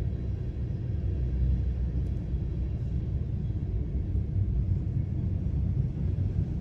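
Steady low rumble of a train passing close by.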